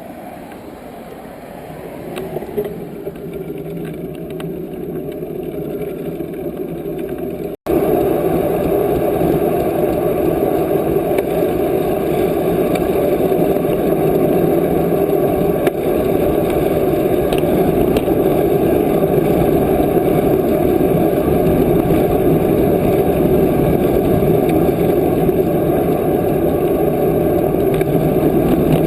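Steady rushing wind noise on the microphone of a camera carried on a moving bicycle. It drops out for an instant about seven or eight seconds in, then comes back louder.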